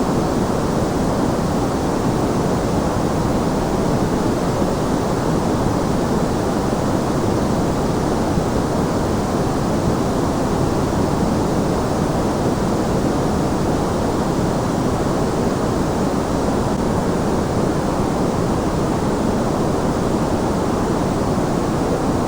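Steady, unchanging synthetic noise, heavier in the low end than the highs: an even, deep hiss with no breaks or variation.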